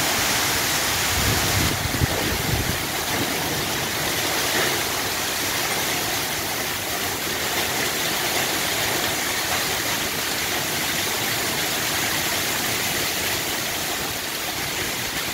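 Steady rain, a continuous even hiss. Near the start a low rumble swells for a couple of seconds and fades.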